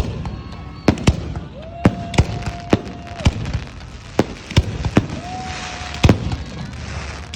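Fireworks going off in an irregular string of sharp bangs, about a dozen, with a burst of crackling just past the middle. A steady whistling tone is held twice, each time for a second or more.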